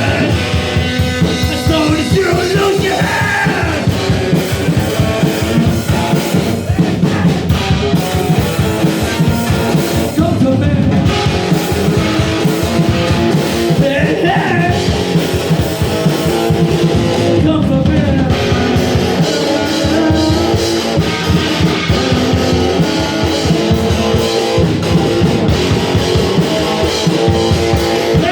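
Rock band playing a punk-rock song live: electric guitar, drum kit and a sung vocal, loud and unbroken.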